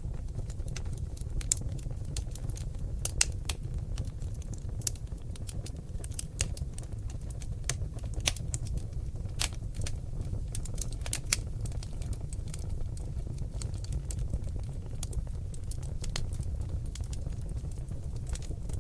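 Wood fire of seasoned oak logs burning in a fireplace: irregular crackles and sharp pops, a few at a time, over a steady low rumble of the flames. A few pops stand out louder, one about three seconds in and another past the middle.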